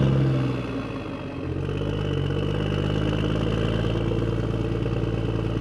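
Engine running steadily, its pitch and level dipping about a second in and then settling again.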